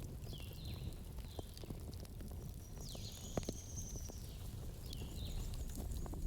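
Campfire burning with a low rumble and scattered crackles and pops, one sharper pop about three and a half seconds in. Short high chirping notes come in small groups, with a longer high whistle near the middle.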